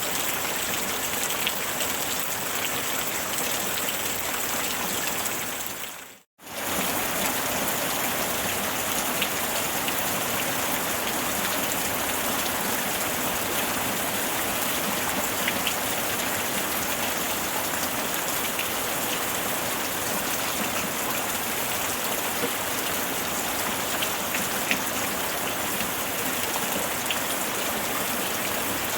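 Steady rainfall, a dense even hiss with scattered sharper drop ticks. About six seconds in it briefly fades to near silence and comes straight back.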